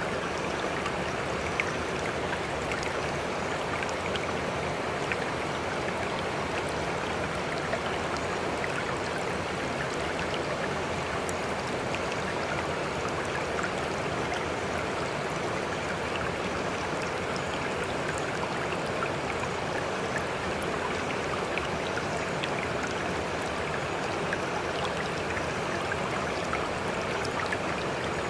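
Floodwater rushing steadily, an even unbroken flow with scattered small splashes.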